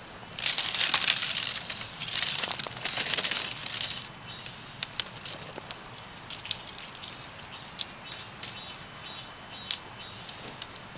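Two bursts of loud rustling and crinkling, like material being shaken or handled, over the first four seconds. Then scattered light clicks and taps follow.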